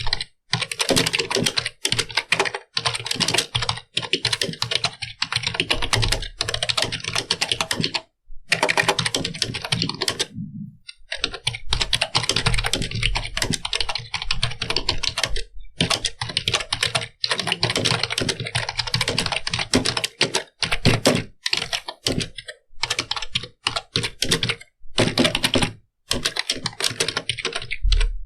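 Fast, continuous typing on a computer keyboard: rapid streams of key clicks, broken by short pauses every few seconds.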